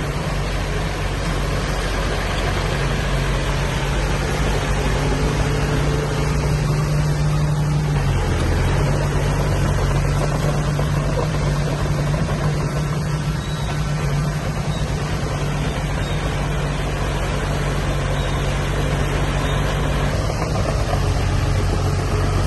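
Diesel engine of heavy earthmoving machinery running steadily, its pitch dipping briefly about eight seconds in before picking back up.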